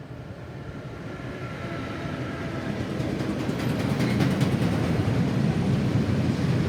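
Electric freight locomotive hauling a train of tank wagons, approaching with a low rumble that grows steadily louder, with a run of rapid wheel clicks about halfway through.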